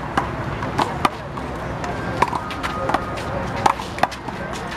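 One-wall handball rally: the rubber handball slapped by bare or gloved hands and striking the concrete wall and ground, a quick run of sharp smacks at uneven intervals.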